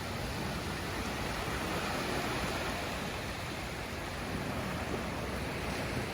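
Steady, even roar of stormy surf and wind at a beach.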